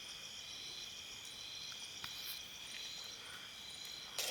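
Insects trilling steadily in high-pitched chorus, with a higher note pulsing about once a second. There are a couple of faint clicks, and a short sharp click near the end.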